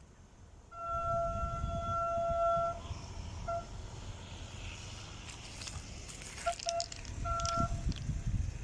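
Freight train locomotive horn: one long steady blast of about two seconds, then a short toot, two quick toots and one more short blast near the end. Low wind rumble on the microphone underneath.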